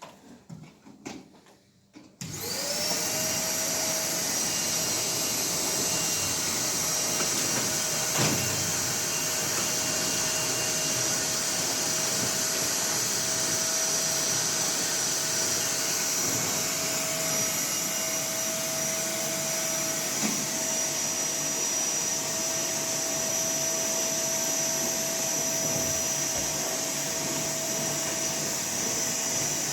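A few light knocks, then about two seconds in an electric motor with a fan switches on, spins up quickly and runs steadily: a rushing hiss with a high whine over it.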